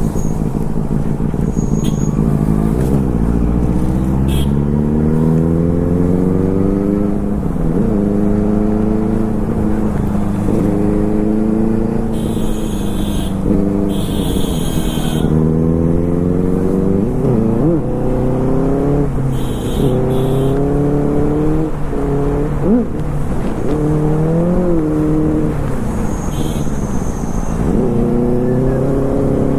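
Superbike engine under hard acceleration through the gears, its note climbing in pitch and dropping sharply at each gear change, again and again, over wind rumble.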